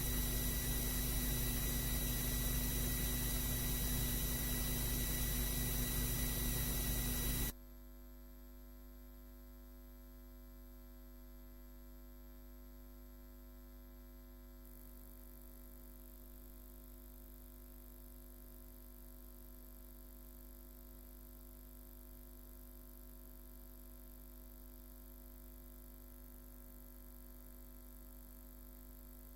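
Steady electrical hum and hiss, the recording's background noise with no one speaking, that cuts off abruptly about seven and a half seconds in, leaving near silence with only a faint hum.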